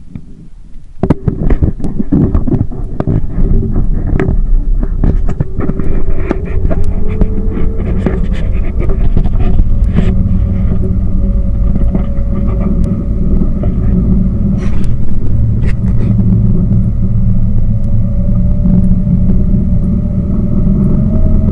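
A tour boat's engine throttling up about a second in, then running hard as a loud low rumble whose engine note slowly rises. Many sharp crackles ride over it.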